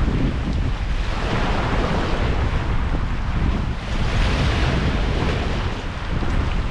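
Strong wind buffeting the microphone: a deep, steady rushing that swells and eases in gusts.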